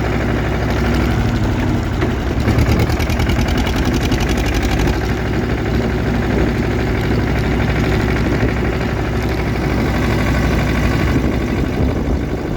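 1959 Renault D16 tractor's engine running at idle with an even beat, a little louder for a couple of seconds about two and a half seconds in.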